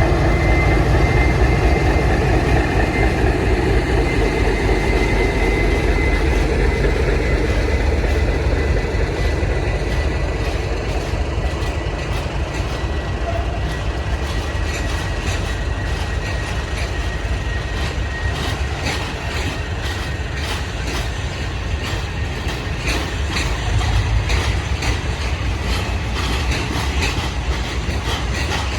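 Train passing by on the track: a steady low rumble with a thin, high squeal held through the first half, then rapid regular clicking of wheels over rail joints from about halfway.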